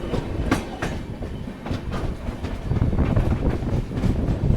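Hirakhand Express passenger train running, heard from on board: a steady low rumble of the wheels with a few sharp clicks over rail joints or junction points, growing louder about three seconds in.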